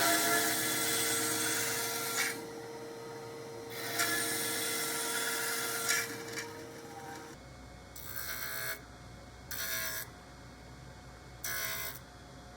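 A power tool's motor spins up and runs at a steady pitch while it cuts into wood in two long passes. After the motor stops, three short bursts of wood-working noise follow.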